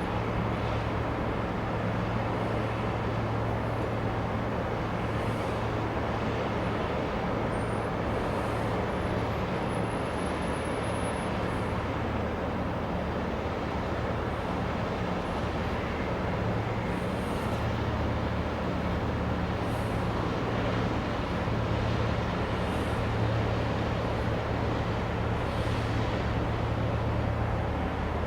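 A low, steady engine drone with a constant noisy hiss over it, unchanging throughout.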